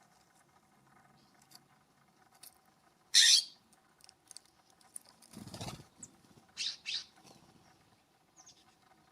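Wild birds at a ground feeder: one loud, sharp call about three seconds in, a brief rustle a couple of seconds later, then two short calls in quick succession, with faint ticking between them.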